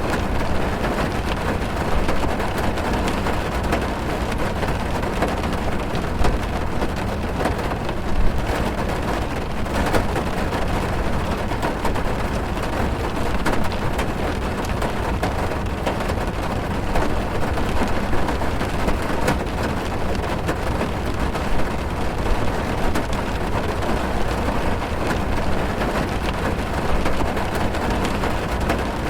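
Steady rain drumming on a car's roof and windows, heard from inside the cabin: a dense, even patter with scattered louder drops.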